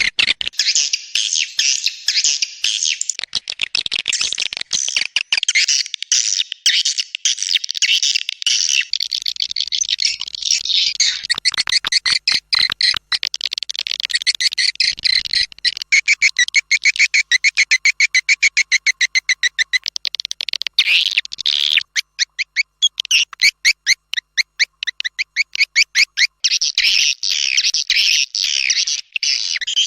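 Swiftlet lure call: a dense chattering twitter of many swiftlets, with stretches of rapid, evenly spaced clicking pulses through the middle. It is the kind of call played in a swiftlet nesting building to draw the birds in.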